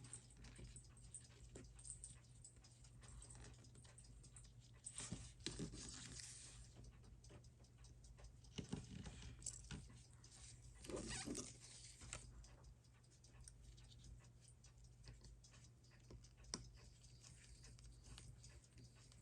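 Near silence over a low steady hum, with faint small clicks and taps of watch parts and tools being handled on a bench.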